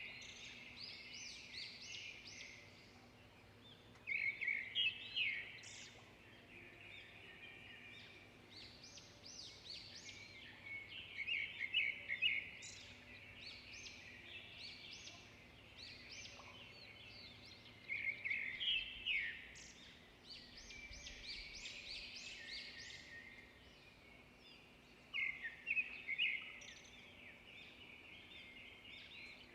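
Wild birds singing: one bird gives a loud, quick song phrase about every seven seconds, four times, with quieter chirping and twittering from other birds in between.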